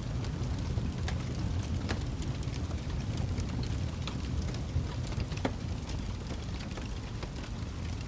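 Wood fire in a fireplace crackling: a steady low rumble of flames with irregular sharp pops and snaps, the clearest about two seconds in and about five and a half seconds in.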